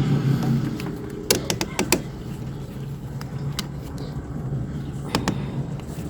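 A few sharp clicks and knocks from a clamp being tightened down to pinch off a coolant hose: three close together about a second in, one more midway, and two near the end. A steady low hum runs underneath.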